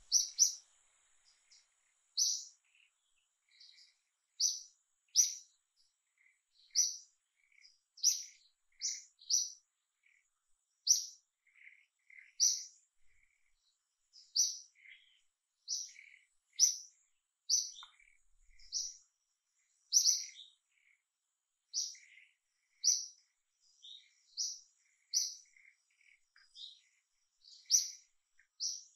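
A bird chirping over and over, short high chirps about once a second, with fainter, lower chirps in between.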